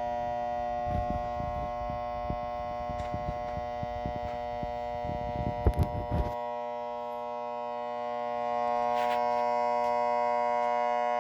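Faulty fan motor running with a steady, many-toned electrical hum. Irregular low knocks and rumbling come and go until about six seconds in, then stop, and the hum grows a little louder near the end.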